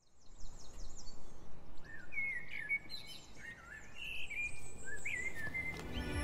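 Several birds chirping and calling in short whistled notes that slide up and down in pitch, over a steady background hiss of outdoor ambience.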